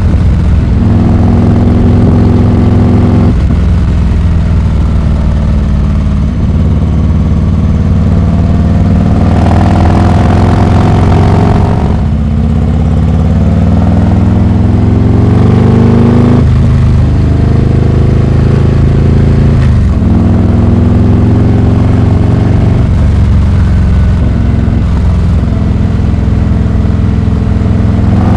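Harley-Davidson Heritage Classic 114's Milwaukee-Eight V-twin through a Rinehart exhaust, running loud under way. Its pitch climbs and drops several times with throttle and gear changes, with one long rise in the middle before it falls away.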